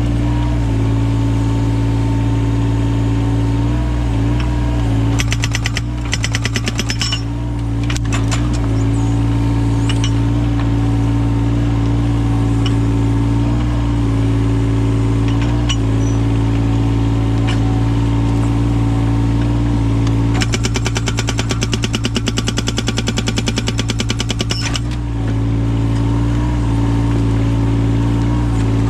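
Yanmar mini excavator's diesel engine running steadily. Two spells of rapid hammering come from its hydraulic breaker with an axe-blade chisel splitting firewood: one about five seconds in lasting some three seconds, and another from about twenty seconds in lasting some four seconds.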